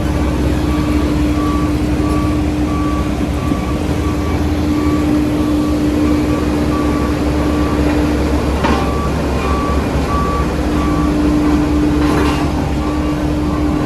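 Heavy diesel construction machinery running with a reverse alarm beeping steadily, a little faster than once a second, over a steady engine hum. Two short sharp noises come about 9 and 12 seconds in.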